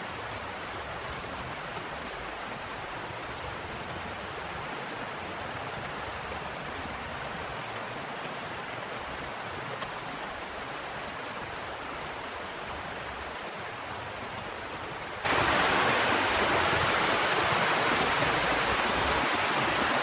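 Steady heavy rain falling. About fifteen seconds in it cuts abruptly to a louder, brighter downpour.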